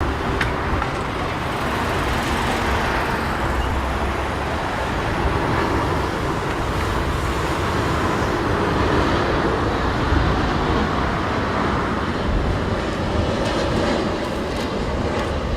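Boeing 787-9 jet engines on low final approach, a steady rushing roar, with strong gusty wind buffeting the microphone as a rumble underneath.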